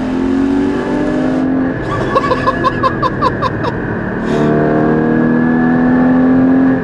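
Porsche 981 Cayman GT4's 3.8-litre naturally aspirated flat-six pulling through the revs, then a quick run of short chirps as the driver comes off the throttle. It accelerates again with a steadily rising note that cuts away sharply near the end, as at a gear change.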